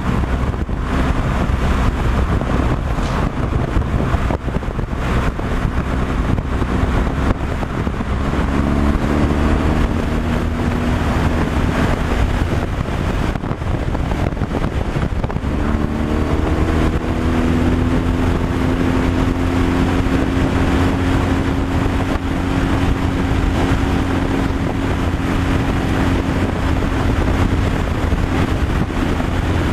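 Heavy truck's diesel engine running at road speed with steady road noise; its revs climb about eight seconds in and again around sixteen seconds, then hold steady.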